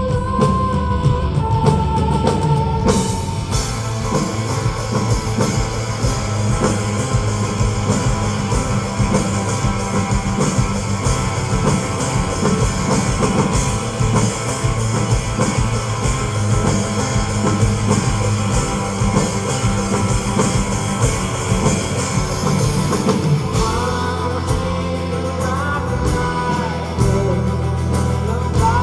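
Live rock band performing with singing, guitar and drum kit. Held sung notes open it; about three seconds in the full band comes in with drums and cymbals, and near the end the sound thins and held vocal lines return over bass and guitar.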